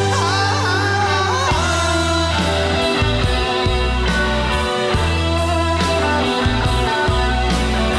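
Rock band playing live in an instrumental passage: a lead guitar with bending notes over bass and steady drums.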